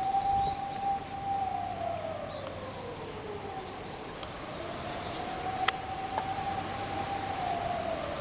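A siren wailing: each wail rises, holds for about a second, then slides slowly down, repeating roughly every five seconds, over a steady background rush.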